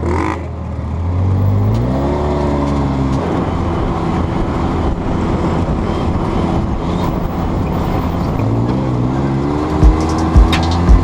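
An off-road vehicle's engine runs and accelerates, its pitch rising about two seconds in and again near the end before holding steady. A few heavy low thumps come in during the last second.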